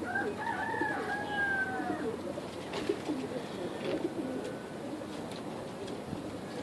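Domestic pigeons cooing, with a drawn-out, slightly falling higher call in the first two seconds followed by low, wavering coos.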